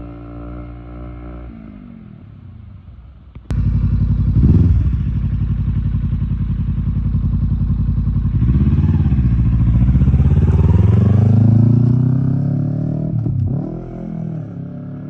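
Motorcycle engine running under way, its pitch falling as it slows. About three and a half seconds in it cuts abruptly to a much louder run, with the revs rising and falling several times and easing off near the end.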